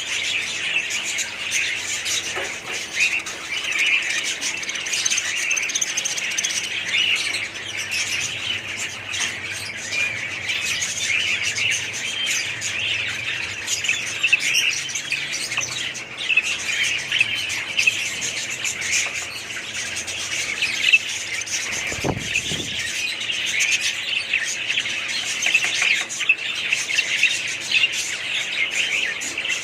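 Many caged budgerigars and other small parrots chattering and chirping together in a dense, continuous chorus, with occasional squawks.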